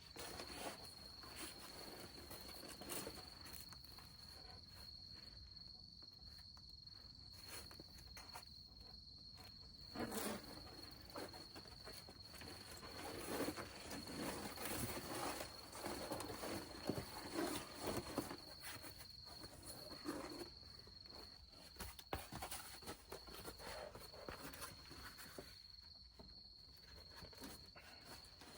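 Insects trilling in one steady, unbroken high note, faint, with scattered small knocks and rustles that are busiest in the middle stretch.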